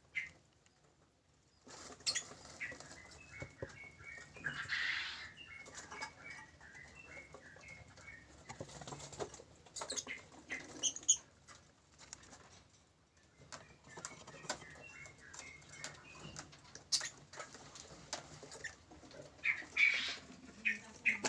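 Lovebirds: runs of short, high chirps in quick series, mixed with scratching, clicks and wing flutter, with a few louder squawks near the end.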